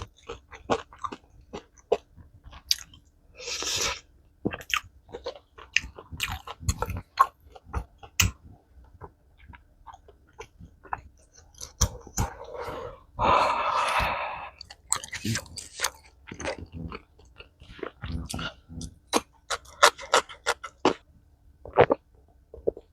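Close-miked chewing, smacking and wet mouth clicks of a person eating spicy tteokbokki. There are two longer airy, hissing sounds, a short one about four seconds in and a longer one of about two seconds around thirteen seconds in.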